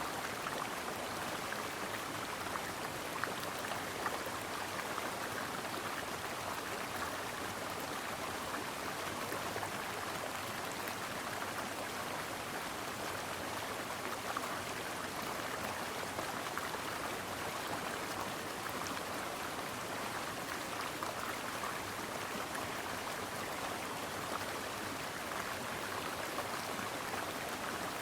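A small stream flowing over rocks, a steady rush of water with fine splashing and bubbling.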